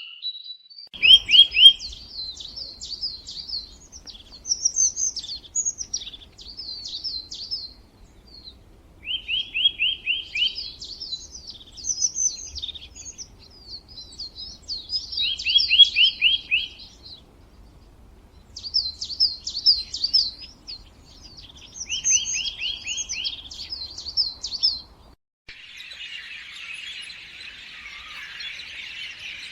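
A songbird singing in repeated phrases every few seconds, each a quick run of about six notes with higher chirps around it. Near the end the song stops and a steady high hiss takes over.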